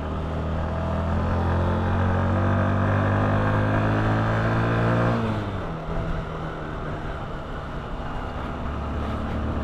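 Honda CBF125's single-cylinder four-stroke engine pulling in second gear up a hill, its revs climbing steadily for about five seconds. The revs then drop sharply and settle to a steadier, lower note.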